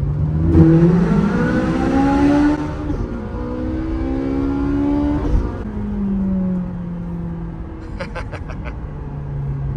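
Ferrari 458 Speciale's naturally aspirated V8 accelerating hard through two gears, its note climbing and dropping at each upshift, then easing off and falling away to a steady cruise.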